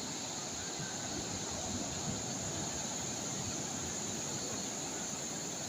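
Calm sea waves washing gently onto the shore as a steady wash of noise, with a constant high-pitched insect drone over it.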